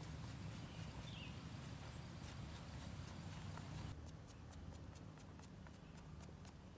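Steady high-pitched insect chorus, like cicadas or crickets, that cuts off abruptly about four seconds in, with scattered faint clicks and crackles throughout.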